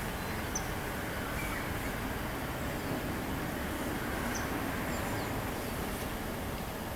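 Steady distant traffic rumble, with a few brief high bird chirps over it.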